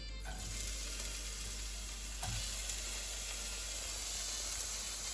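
Chopped onion, green chili and ginger sizzling in hot oil in a pan, the hiss starting just after the opening as they go in, with a light knock about two seconds in.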